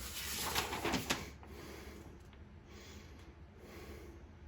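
Brief rustling with a few light knocks, then quiet room tone.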